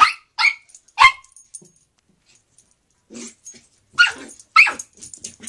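Puppy barking at its reflection in a mirror: three short, sharp barks in quick succession, then after a pause of about three seconds two more, followed by a few softer yips.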